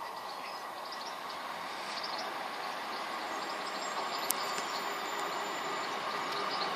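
Sprinter diesel multiple unit train running on the line, its engine and wheel noise growing steadily louder as it comes closer.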